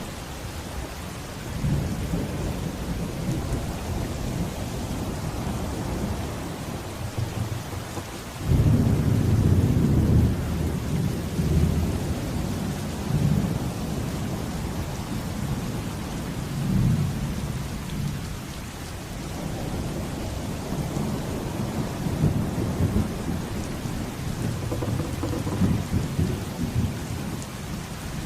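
Steady heavy rain with rolling thunder. A loud rumble of thunder breaks in suddenly about eight seconds in, and lesser rumbles swell and fade through the rest.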